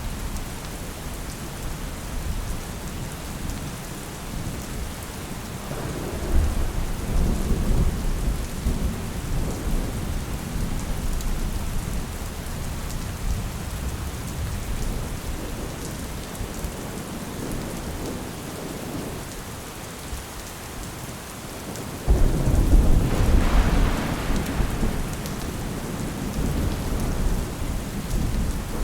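Steady rain with two rolls of thunder. The first swells up about six seconds in and rumbles for several seconds. The second, louder one breaks suddenly about three-quarters of the way through and slowly dies away.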